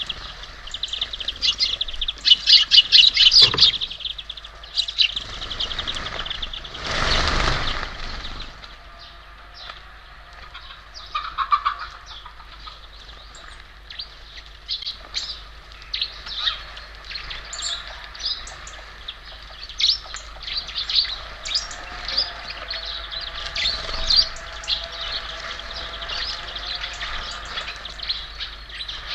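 Small birds at a feeder chirping and calling, many short high chirps throughout, thickest a couple of seconds in. About six seconds in, a rushing noise lasts about two seconds.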